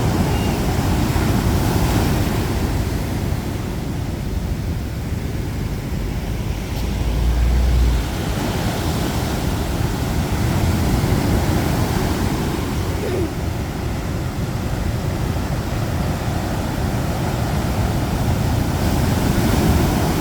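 Rough sea surf breaking on the shore, a continuous wash that swells and eases every several seconds, with wind on the microphone; a short low buffet of wind about seven seconds in.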